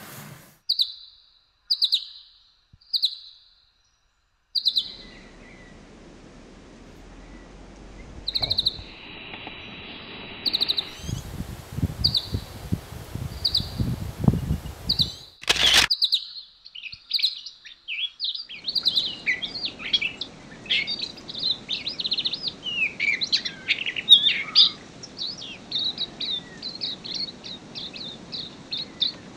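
Small songbirds calling: short single chirps about once a second, then from about two-thirds through a busy twittering of several birds. A sharp click sounds near the middle.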